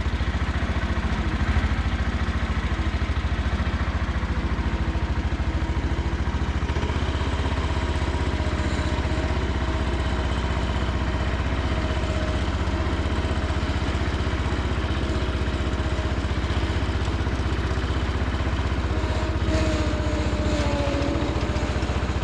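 MTD 990 garden tractor's engine running steadily as the tractor is driven, with its carburetor main jet freshly adjusted so that it no longer backfires. A faint steady whine comes in about seven seconds in.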